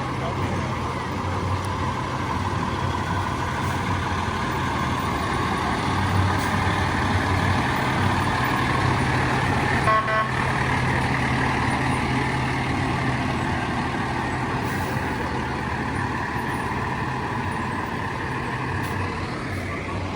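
Fire truck engine running steadily, with one short horn blast about ten seconds in.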